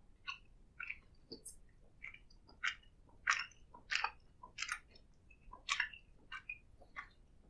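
Close-miked chewing and biting of food: a run of short, sharp, wet chewing clicks about one every half second to second, loudest in the middle.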